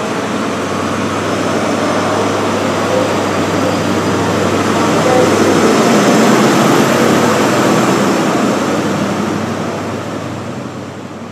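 A train passing at speed, a steady rushing rumble of wheels on rails that builds to its loudest about six seconds in and then fades out.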